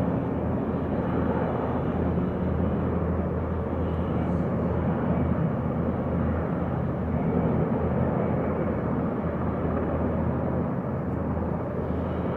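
Steady drone of military aircraft flying past at a distance, a low, even hum with no sudden sounds.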